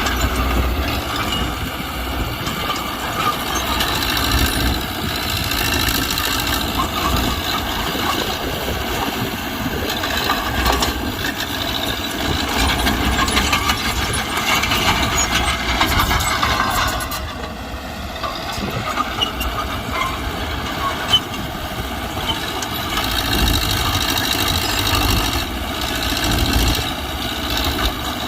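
Mitsubishi BD2G crawler bulldozer's diesel engine running steadily while it works. About two-thirds of the way in, the engine eases off briefly with a falling then rising pitch, then picks back up.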